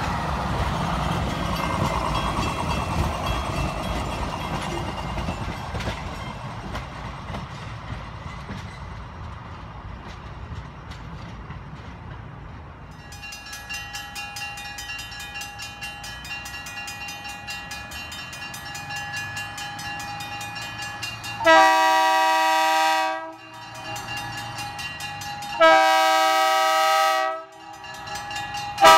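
A Budd RDC rail diesel car rumbles past close by, its engine and wheels fading away over about ten seconds. A grade-crossing bell then rings faintly and steadily. Near the end the RDC's air horn sounds two long chord blasts and a short one, the opening of the standard grade-crossing signal.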